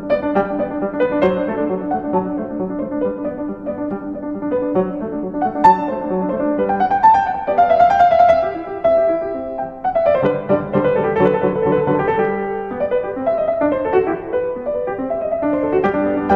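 Piano music: many notes played together and in quick runs.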